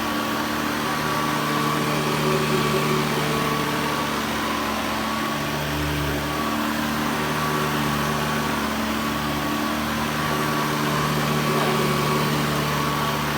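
Hoover Commercial EH50500 vacuum cleaner running steadily, a motor hum with a thin high whine, fitted with a borrowed cloth dust bag; it is fairly quiet for its kind.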